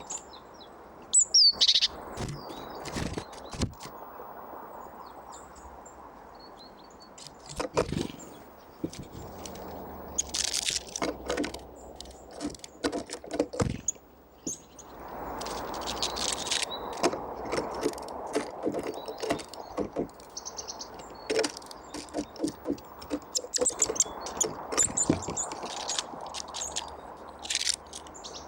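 Small songbirds calling with short high chirps, among many sharp taps and clicks, over a steady background hiss.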